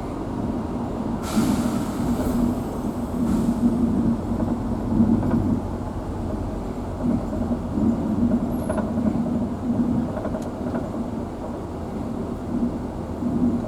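Engine and road rumble heard from inside a moving vehicle on a forest road, a steady low drone that swells and eases. A brief hissing rush comes about a second in.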